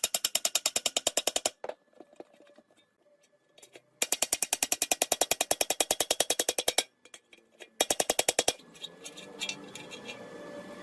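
A percussive power tool hammering at about a dozen blows a second, in three bursts: a long one at the start, another about four seconds in, and a short one about eight seconds in. Light tapping and clicks fall in the pauses between.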